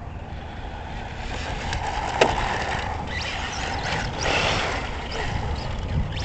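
Tamiya TT-01E electric RC truck driving over rough ground: motor whine and tires crunching and scrabbling on dirt, with a sharp knock about two seconds in.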